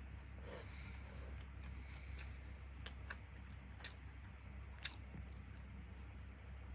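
A person chewing a mouthful of fried chicken and rice close to the microphone, with soft wet mouth sounds and two sharp clicks, about four and five seconds in, over a steady low hum.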